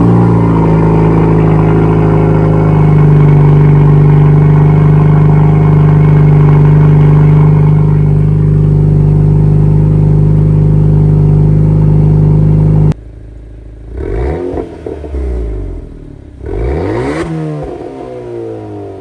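Exhaust of a 2020 Honda Accord 2.0-litre turbo four-cylinder, fitted with a Borla exhaust and SPELAB exhaust cutouts, running loud and steady. After an abrupt cut about two-thirds of the way through, the engine is revved twice, each time rising and falling in pitch.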